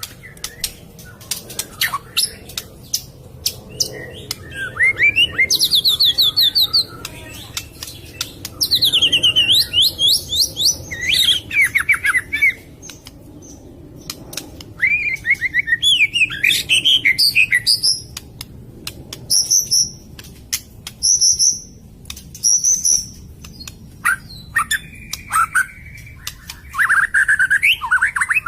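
White-rumped shama singing: a varied run of whistled phrases, fast trills and many sharp clicking notes, with short pauses between phrases.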